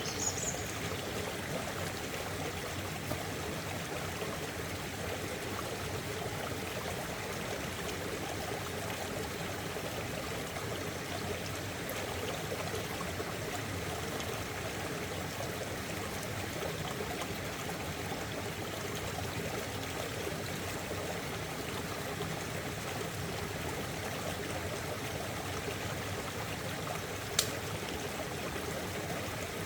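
Stream water flowing and trickling steadily. A brief high chirp right at the start and a single sharp click near the end.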